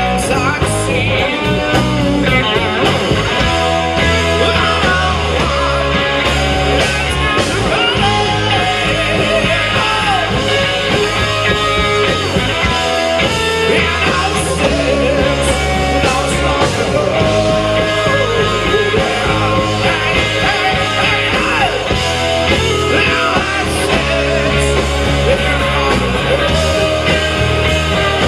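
A rock band playing live: electric guitars, bass and drums under a singing voice.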